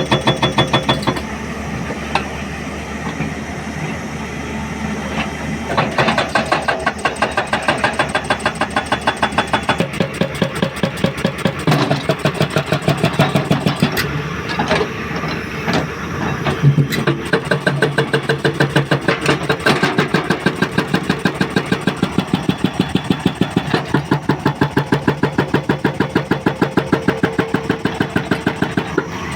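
Hydraulic rock breaker on a Hyundai 210 excavator hammering rock in rapid, regular blows over the diesel engine's steady running. The hammering eases off for a few seconds near the start, then keeps going.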